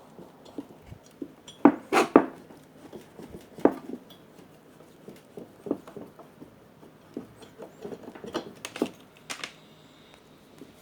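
Scattered clinks and taps of small metal tools and parts being handled during an electronics repair, loudest in a cluster about two seconds in and again near the end.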